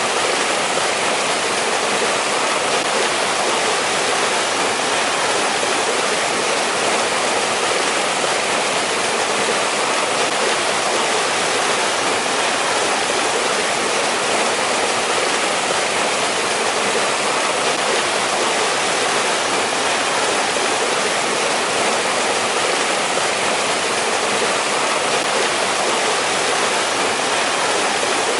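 Mountain valley stream rushing steadily over rocks, an even unbroken rush of water.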